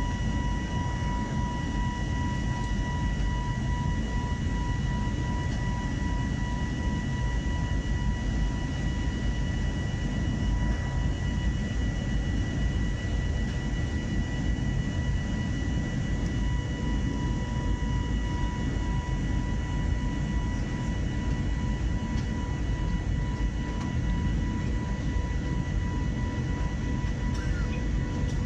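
Airliner cabin noise: the engines and rushing air heard from inside the passenger cabin, a steady low rumble with a faint steady high whine, unchanging in level, typical of the climb after take-off.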